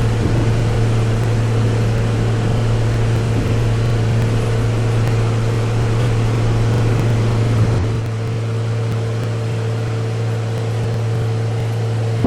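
Train running: a steady low hum over a noisy rumble, easing off slightly about eight seconds in.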